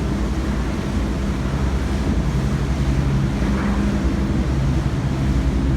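Tour boat's engine running steadily underway, a low drone, with wind and water noise rushing past.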